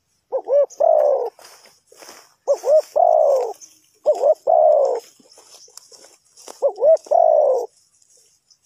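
Spotted dove cooing: four calls about two seconds apart, each two short coos followed by a longer, slightly falling coo.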